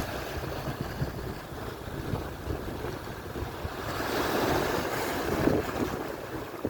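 Atlantic surf breaking and washing on the shore, with wind buffeting the microphone; a wave swells louder about four seconds in.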